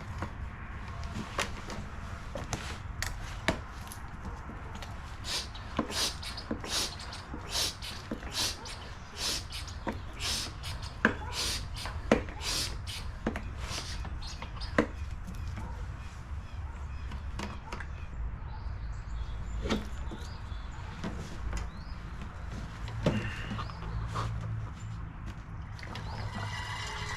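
Hand-operated oil extractor pump worked in rhythmic strokes, about two a second, each stroke a short hiss with an occasional click, as it sucks the old oil out of a lawn mower engine. A steady low hum starts near the end.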